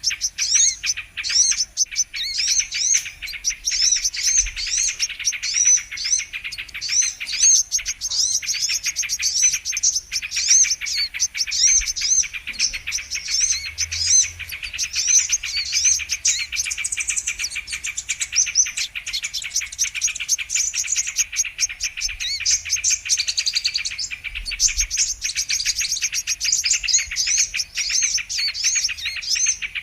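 Brown-throated sunbird (kolibri kelapa) calling in a dense, continuous run of rapid, high, thin chirps and trills, as played on a bird-lure recording.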